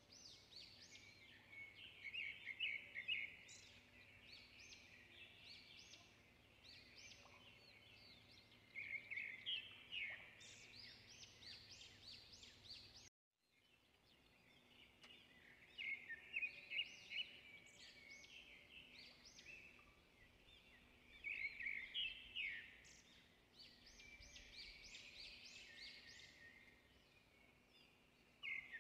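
Birds chirping in quick runs of high twittering notes that come in clusters every few seconds, faint, with a short break about 13 seconds in.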